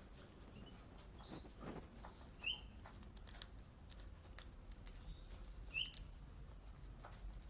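Small pet birds fluttering their wings, with light taps and clicks and a few short, single high chirps.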